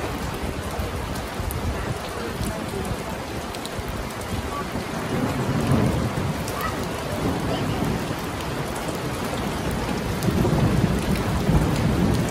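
Steady rain falling on wet paving stones, with fine patter of drops. A low thunder rumble swells about five seconds in and again near the end.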